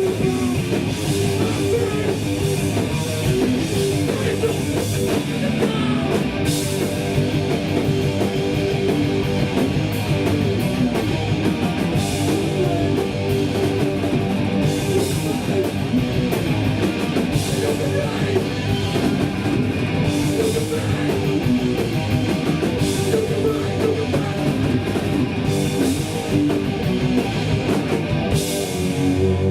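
A hardcore punk band playing live: distorted electric guitars, bass and a drum kit with repeated cymbal crashes, at a steady loud level. The full band breaks off at the very end.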